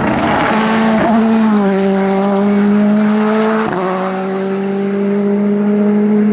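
Hillclimb race car engine running hard at high revs, holding a steady, loud note. The pitch dips slightly about one and a half seconds in, and the note breaks off for an instant near four seconds in before carrying on.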